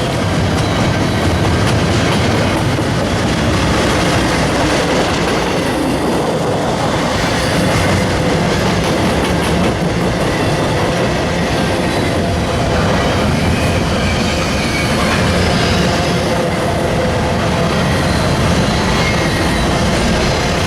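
Train cars rolling steadily past at close range, wheels clicking over the rail joints, with faint steady wheel or flange tones over the rumble.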